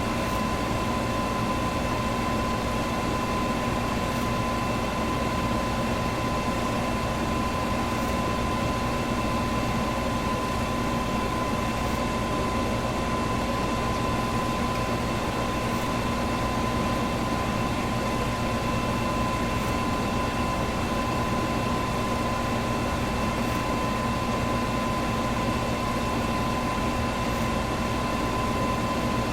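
Electric fan running steadily: a constant rush of moving air with a steady high hum over it.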